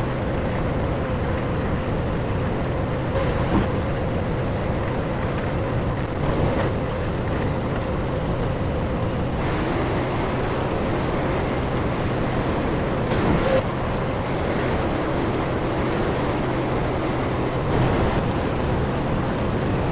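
Honda gas engine of a Derette DRT450 mini skid steer running steadily while the machine works, with a few brief louder moments.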